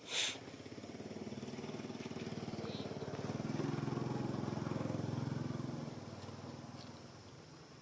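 A motor vehicle passing by: its engine hum grows louder, is loudest a little past the middle, then fades away. A brief, sharp, high-pitched sound right at the start.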